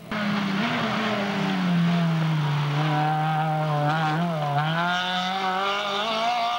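Rally car engine running at high revs on a special stage. The pitch holds nearly steady, dips briefly about two-thirds of the way through as the driver lifts off, then climbs again under acceleration.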